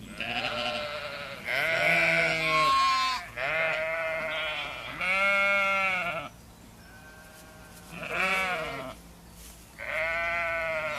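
Sheep bleating: a series of about six or seven bleats, each one to two seconds long with a wavering quaver, some higher-pitched than others.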